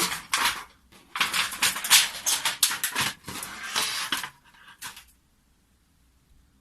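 Thin 0.1 mm stainless steel sheets and stainless rods of a homemade folding fire stand clattering and crinkling as they are handled, in quick irregular bursts that stop abruptly about five seconds in.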